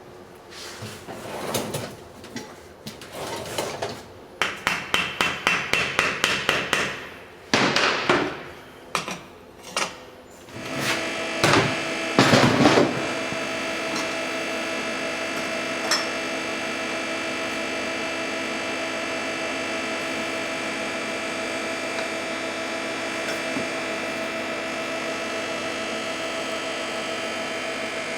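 Hand tools working on a motorcycle engine: scattered metal knocks and a quick run of ratchet-like clicks, about four a second. About halfway through, a steady mechanical hum starts and holds.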